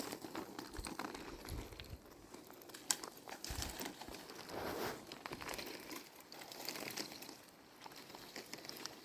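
Irregular handling noise: scattered sharp clicks and rustling, with a louder rustle about halfway through.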